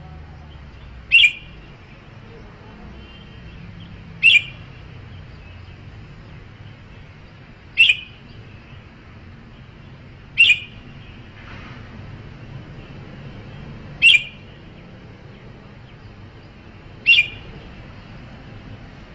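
Red-whiskered bulbul giving six short, sharp calls about three seconds apart, over a faint steady low hum.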